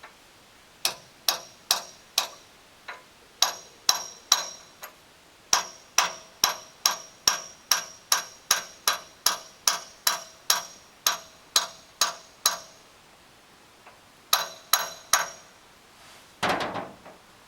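Hammer striking a metal pin on a crane, sharp ringing metal-on-metal blows about two to three a second in several runs with short pauses, driving the through-pin back to free the leaking boom cylinder. Near the end comes a short rattling clatter.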